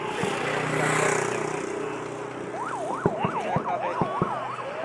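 Fireworks display: a string of sharp bangs and crackling pops, with a whistling firework warbling rapidly up and down in pitch for about two seconds in the second half.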